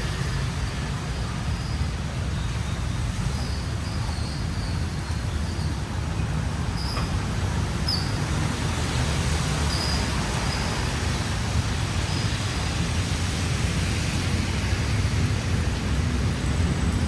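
Steady street traffic: a continuous low rumble of passing cars and other road vehicles, with a few brief faint high chirps partway through.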